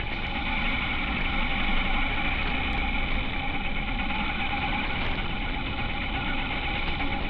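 Honda H'ness CB350's single-cylinder engine running steadily.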